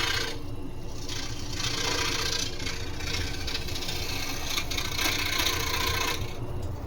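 Scroll saw running with its blade cutting wood: a steady fast chatter with a high hiss from the cut. The hiss drops out briefly about half a second in and stops about six seconds in, while the saw keeps running.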